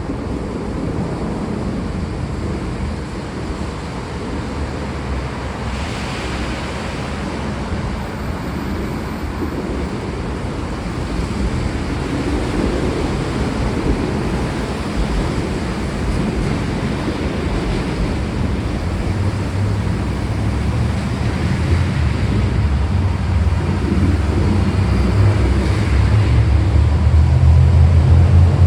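Steady heavy rain, with a low rumble of thunder building about two-thirds of the way through and loudest near the end.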